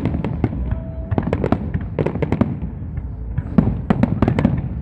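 Fireworks display: a rapid, irregular series of sharp bangs and cracks from bursting shells, many close together, over a steady low rumble.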